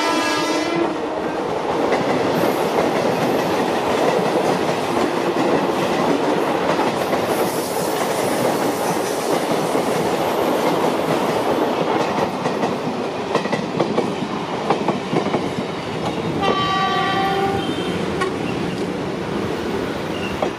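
Indian Railways passenger train rolling past close by: a steady rumble with wheels clattering over the rail joints. A train horn sounds briefly right at the start and again for about a second roughly three quarters of the way through.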